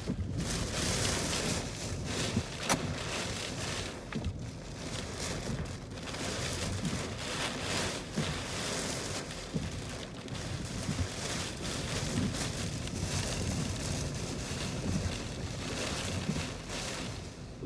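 Hurricane-force wind and driving rain in the storm's eyewall: a dense rush of noise that swells and eases with the gusts. There is one sharp click a little under three seconds in.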